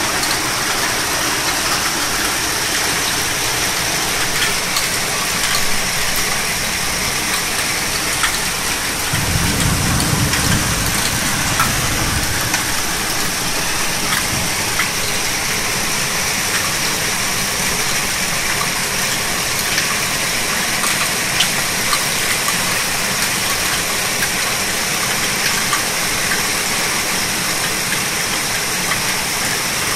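Heavy downpour: a steady, dense hiss of rain pouring onto roofs, leaves and flooded pavement, with scattered sharp ticks of drops. About nine seconds in, a low rumble rises under it for some three seconds.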